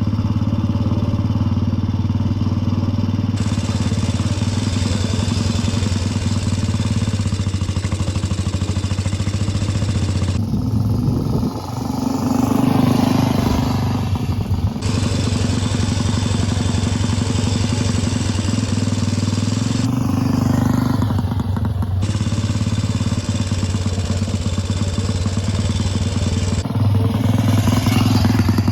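A 1935 motorcycle's engine running steadily, with the revs rising and falling a few times and a louder stretch near the end.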